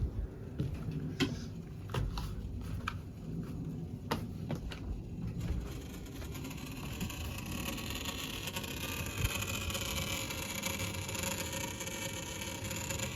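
A few light clicks and knocks, then from about five seconds in a steady hiss of water rushing into the pop-up camper's plumbing as the lines fill after the water supply is turned back on.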